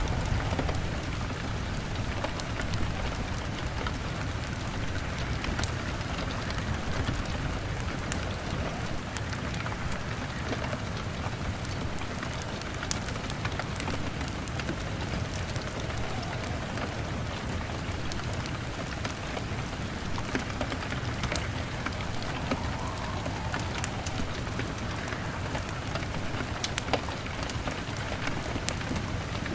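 Steady rain pattering on a window pane, with scattered sharp crackles of a log fire.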